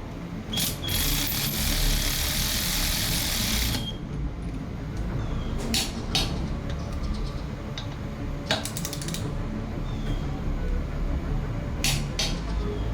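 Workshop work on a motorcycle's sprocket and drive parts: a steady hiss lasting about three seconds near the start, then scattered sharp clicks and light metal taps of hand tools, including a short fast run of clicks a little past the middle.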